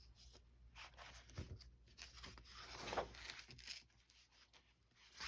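Faint rustling and sliding of paper as the pages of a vintage paper doll book are handled and turned, with a few soft taps; the loudest rustle comes about three seconds in.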